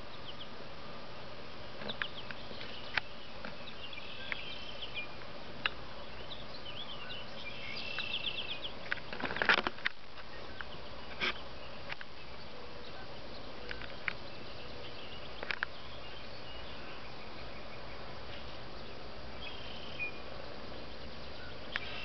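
Small birds chirping faintly in short high calls, with a flurry of chirps between about three and eight seconds in, over a steady hiss. Scattered sharp clicks and one louder rustling thump about nine seconds in are also heard.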